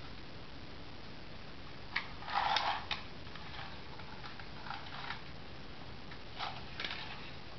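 Toy car being handled in play: a sharp click about two seconds in, a short rattle just after it and another click, then a few fainter clicks and rattles later on, over a steady hiss.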